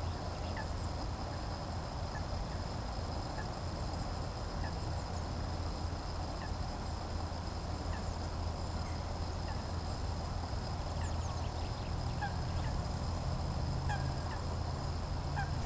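A flock of geese honking and chattering continuously, with a few short, high bird chirps over a steady low rumble.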